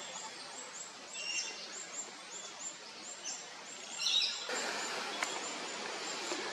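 Small birds chirping: many short, high, falling chirps repeating over a steady outdoor hiss, with a louder burst of calls about four seconds in.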